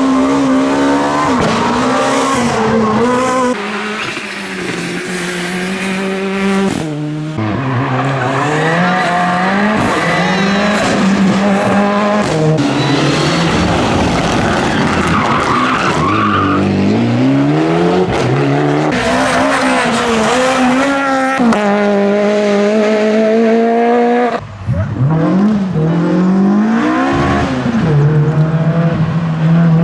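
Rally cars driven flat out on a stage: engines revving hard, pitch climbing through each gear and dropping sharply on shifts and lifts, with tyre squeal.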